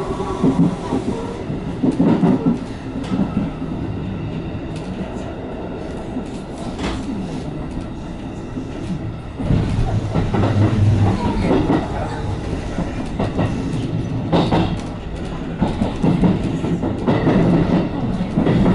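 JR West 221 series electric train running, heard from on board: steady rumble of the running gear with the wheels clicking and clattering over rail joints and points. The noise steps up louder about halfway through.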